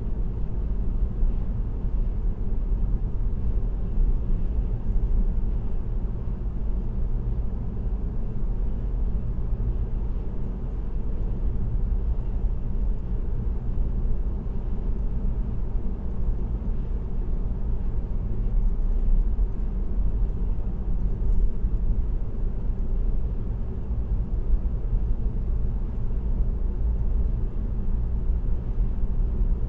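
Car cruising at steady highway speed: an even, low rumble of road and tyre noise with engine hum, heard from inside the cabin.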